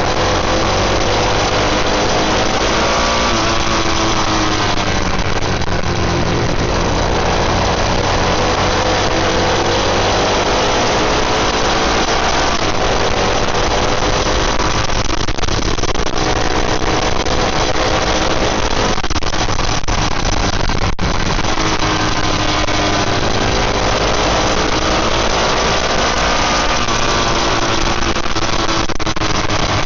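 Motorcycle engines running under way, their pitch rising and falling repeatedly as they accelerate and ease off, over a steady rush of noise.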